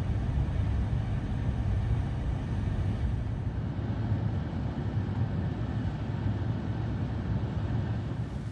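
Wind buffeting the microphone: a steady, fluttering low rumble with no clear pitch.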